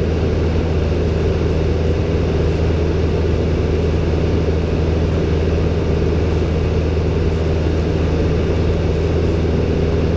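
Robin DR400-120 light aircraft's four-cylinder piston engine and propeller droning steadily in flight, heard from inside the cabin.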